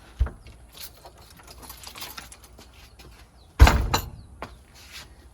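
Scattered clicks, knocks and rattling from something being worked at while someone tries to get it open. There is one sharp knock just after the start and a heavy thump about three and a half seconds in.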